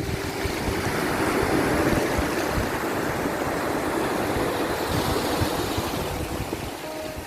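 Ocean waves washing on a shore: a steady surf that swells over the first couple of seconds and slowly eases, with a few faint held tones from a soft melody underneath.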